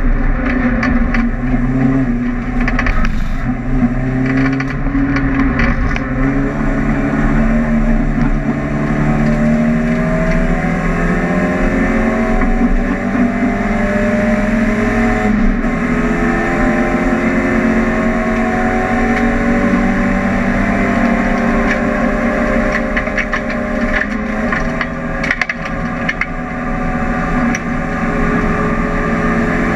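Volkswagen Golf GTI race car's engine heard from inside the cabin, running hard under load, its note climbing slowly with road speed and dropping back a couple of times at gear changes.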